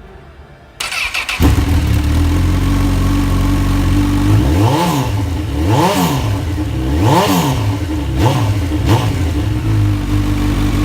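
Honda CB1000R's inline-four engine with an aftermarket Ixil exhaust started on the electric starter: a brief crank about a second in, then it catches and idles. It is blipped several times, the revs rising and falling quickly, and then settles back to a steady idle.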